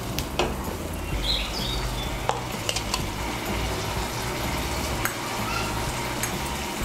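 Pointed gourd paste frying in mustard oil with a steady sizzle, while a spatula stirs and scrapes it around the pan, giving a few sharp taps against the pan.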